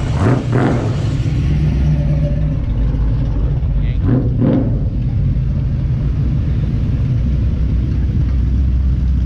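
A car's steady low engine and road rumble. Two short, louder sounds break in, one right at the start and one about four seconds in.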